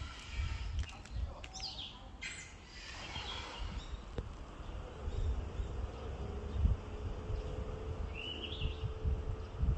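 Yellow-rumped flycatcher giving short, scattered calls. A steady buzzing drone comes in about halfway through, over a low rumble.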